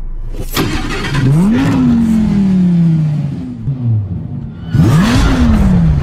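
Sports car engine started with a sudden burst about half a second in, then revved once, rising quickly in pitch and sinking slowly back. Near the end come several quick, sharp blips of the throttle.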